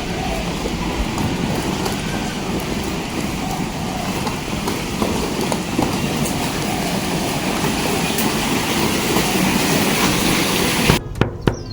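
Steady rushing noise of a car moving in the rain, heard from inside the cabin. About eleven seconds in it cuts off abruptly to a quieter room with a few sharp clicks and short falling chirps.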